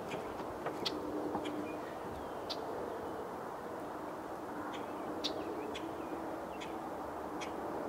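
Birds giving short, sharp chirps, one every second or so, over a steady low background rumble.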